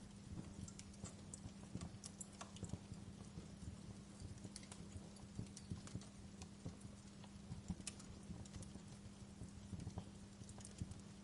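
Faint wood fire crackling: irregular small pops and snaps over a low steady hum.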